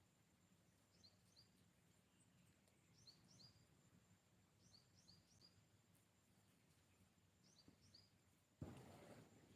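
Faint bird chirps, short high notes in quick groups of two or three, repeating every second or two over a faint steady high-pitched hum. Near the end comes a brief, louder rush of noise lasting about a second.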